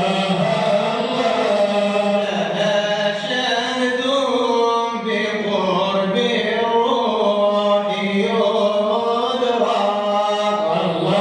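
Arabic religious chanting (madih nabawi): several male voices singing together in long held notes that step in pitch.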